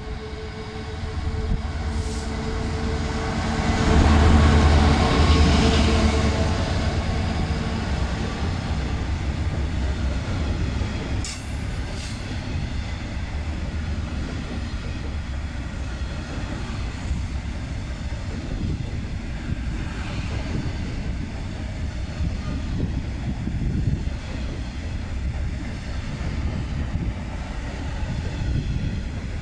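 Class 66 diesel-electric freight locomotive passing, its two-stroke V12 diesel loudest about four to six seconds in. It is followed by a long train of open box wagons rolling past with a steady low rumble of wheels on rail and occasional clicks.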